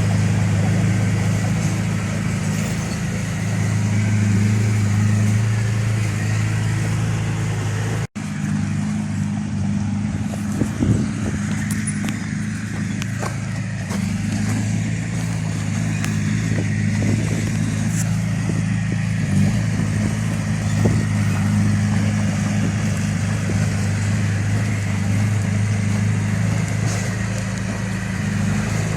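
Heavy diesel engine running steadily under load, with a brief break about eight seconds in and a few sharp knocks and clanks after it.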